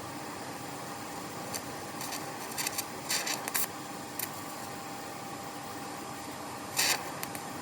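TIG welder at work closing up thin, holed sheet steel on a mower deck: a steady electrical hum with several short hissing bursts, the loudest near the end.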